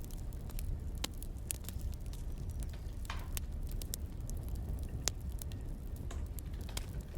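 Wood fire crackling: irregular sharp snaps and pops over a steady low rumble of burning logs, with one louder pop about five seconds in.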